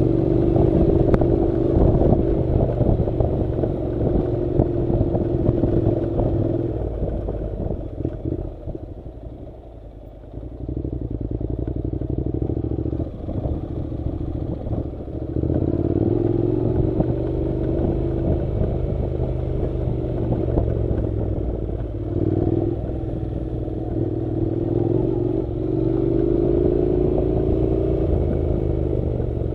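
Honda NC700's parallel-twin engine running as the motorcycle rides a dirt track, its note rising and falling with the throttle. About a third of the way in the engine drops back for a couple of seconds, then picks up again.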